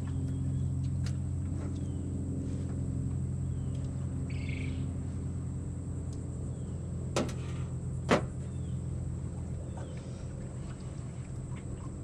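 A steady low mechanical hum, like a motor running, with two sharp clicks about seven and eight seconds in and a brief high chirp around four seconds.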